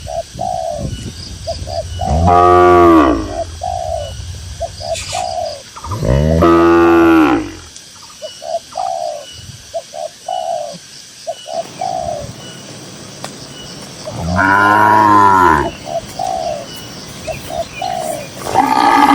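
Cattle mooing: three long, loud moos a few seconds apart and a fourth beginning near the end. Between them doves coo over and over in short notes.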